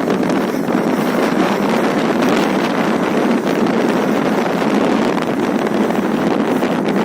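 Steady, loud wind rushing over the microphone of a moving motorbike, covering any engine sound.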